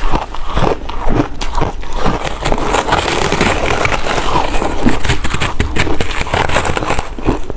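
Ice being bitten and chewed close to the microphone: a continuous run of dense, crackling crunches.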